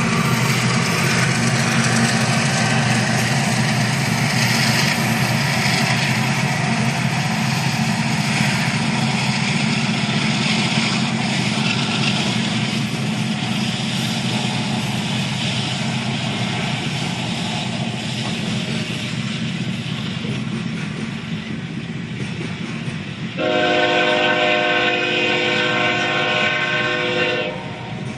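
Coal train of hopper cars rolling past, heard from inside a car: a steady rumble of wheels on rail with some clacking. Near the end a horn chord is held for about four seconds, then cuts off.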